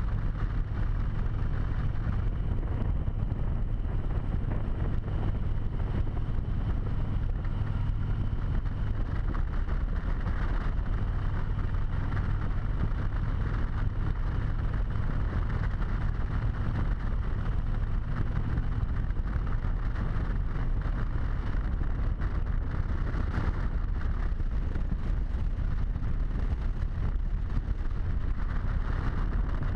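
Harley-Davidson V-twin motorcycle engine running steadily under way, with wind rushing over a helmet-mounted camera's microphone.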